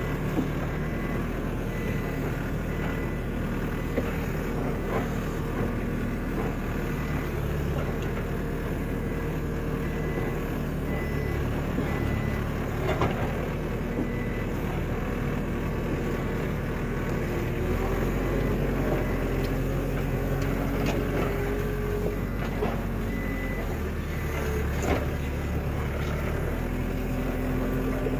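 A skid steer's diesel engine running steadily, its pitch shifting a couple of times as the throttle changes. A faint, intermittent high beeping and a few short knocks sound over it.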